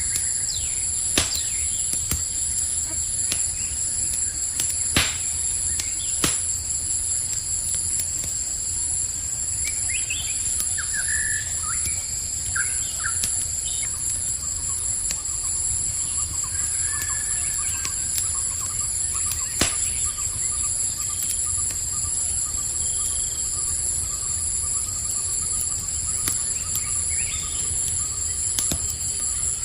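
Campfire crackling with a low steady rumble and a few sharp pops, over a steady high trilling chorus of crickets. A few short bird chirps come near the middle.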